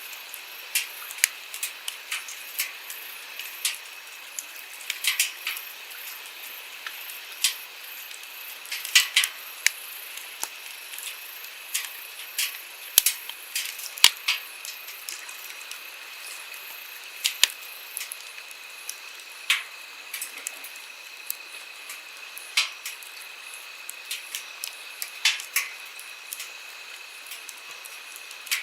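Wood campfire crackling, with irregular sharp pops and snaps, a few of them loud, over the steady hiss of a flowing stream.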